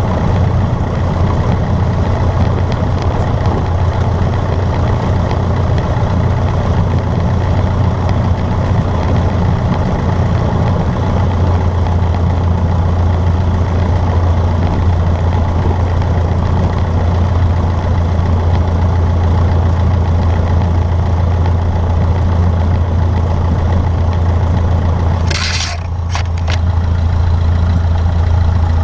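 Cessna 152's Lycoming four-cylinder engine and propeller droning steadily as a loud, even low hum. About 25 seconds in there is a brief hiss while the drone dips for a moment.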